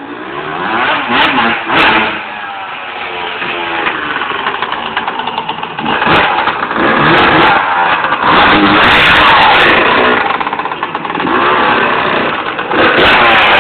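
Honda CR125 two-stroke single-cylinder motocross engine revving hard and loud, its pitch repeatedly rising and falling.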